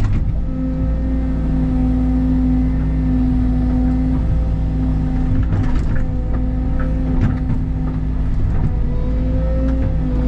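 Tracked excavator's diesel engine running steadily under work, with a few sharp knocks around the middle.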